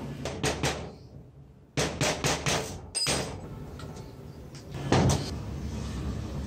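A series of short, sharp knocks and clacks, several in quick succession, with the loudest one about five seconds in.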